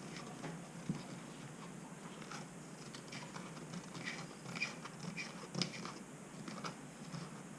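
Faint scraping and clicking of a spoon stirring a baking soda and citric acid powder mixture in a container.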